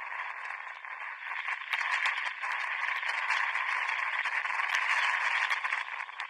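Spectators applauding, many hand claps blended together, swelling about two seconds in and dying away near the end.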